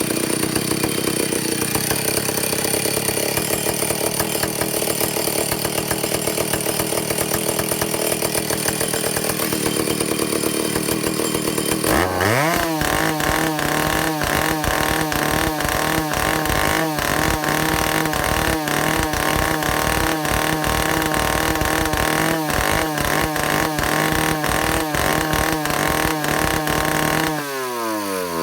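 Vintage Stihl two-stroke chainsaw engine running at high speed, then dropping about twelve seconds in to a steady, evenly pulsing idle, with the revs changing again near the end. The saw is being test-run while its carburetor is adjusted after an air-leak and fuel-system repair.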